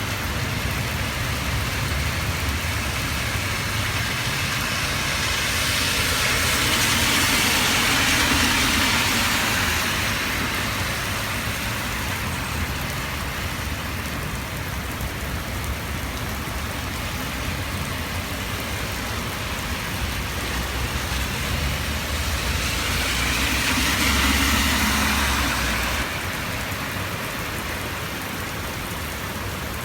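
Heavy rain falling steadily, with two vehicles passing on the wet road, each a slow swell of tyre hiss and engine that builds and fades, about a quarter of the way in and again about four-fifths through.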